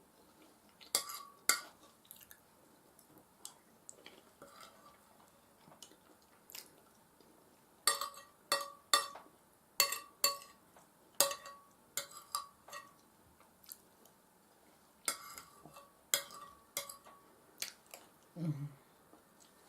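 Cutlery clinking and scraping against a dish while someone eats, with soft chewing. There are about twenty sharp, ringing clinks in clusters, and a brief low hum near the end.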